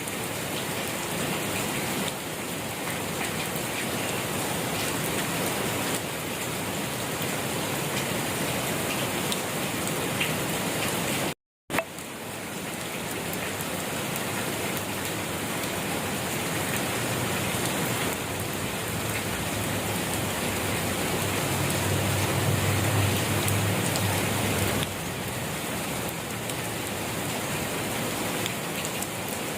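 Steady rain falling, an even hiss of drops on surfaces. It cuts out for a split second about a third of the way in. A low rumble swells in the second half.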